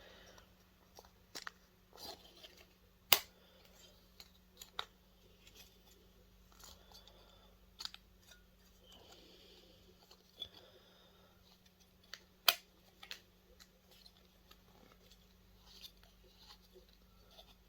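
Scattered small clicks and knocks of hand tools and metal parts being handled while a stuck screw is worked out of a projector's aluminium frame, with two sharper clicks about three seconds in and again about twelve seconds in. A faint steady hum sits underneath.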